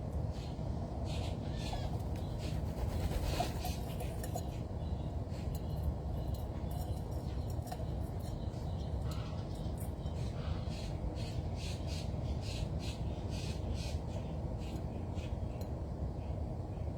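Birds calling in short, frequent calls over a steady low background rumble.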